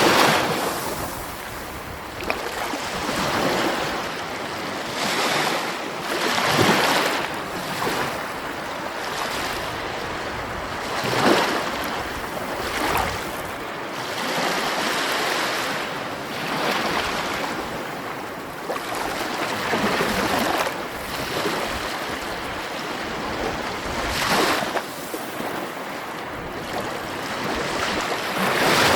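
Sea waves, the surf swelling and washing back in surges every few seconds.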